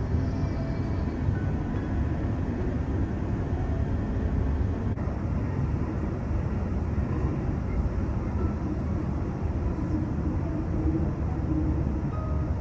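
Cabin noise of an electric suburban passenger train running between stations: a steady low rumble of wheels on rail and motors.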